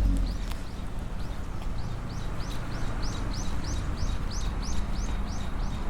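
A bird calling in a rapid, even series of short high chirps, about three a second, over a steady low rumble.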